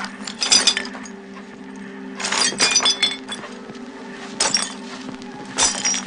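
Glasses and bottles shattering in four bursts of crashing and tinkling, over a steady low drone.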